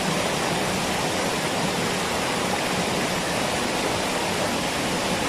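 Steady rush of water from a waterfall, an even, unbroken roar with no changes.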